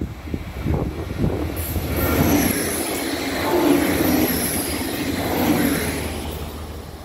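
Regional passenger multiple-unit train passing close by at speed: a rush of wheels on rails and air that builds about a second and a half in, holds, and fades near the end. A thin high whine of the wheels on the rails runs over it.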